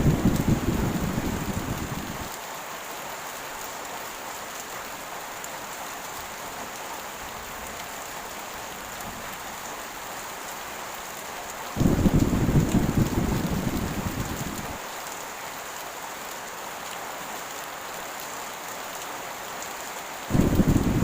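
Heavy rain falling steadily, with deep thunder rumbles that start abruptly and fade over two to three seconds: one dying away at the start, another about twelve seconds in, and a third breaking near the end.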